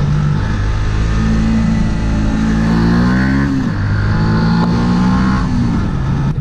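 Yamaha YZF-R125's single-cylinder four-stroke engine accelerating under way. Its pitch rises for a couple of seconds and drops sharply at a gear change about three and a half seconds in, then holds steady and eases off near the end, with wind noise over it.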